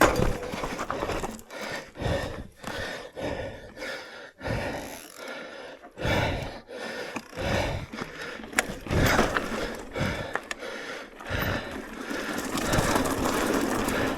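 E-mountain bike being ridden over a rough, rocky trail: tyre noise and the bike rattling in uneven surges, with occasional sharp knocks.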